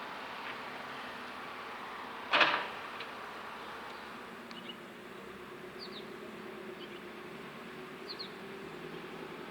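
Outdoor ambient background noise with one short, sharp bang about two and a half seconds in. A faint steady hum comes in around the middle, and a few faint high chirps sound later on.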